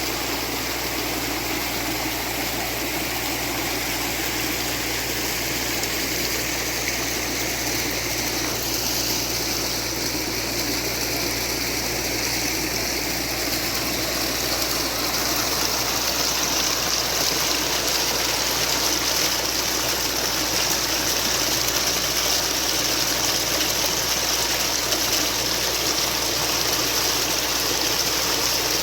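Running water, a steady rush that grows slightly louder and brighter about halfway through.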